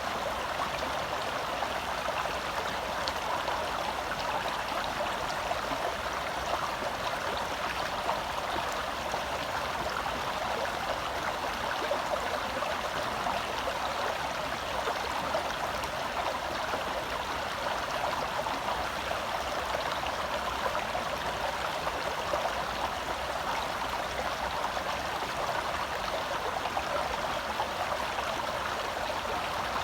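Forest stream flowing over rocks: a steady rush and babble of water, close up.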